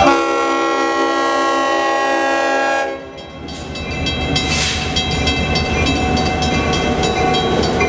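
EMD GP38-2 diesel locomotive horn sounding one long chord blast of about three seconds that cuts off sharply, followed by the steady running noise of the train, with a brief hiss about four and a half seconds in.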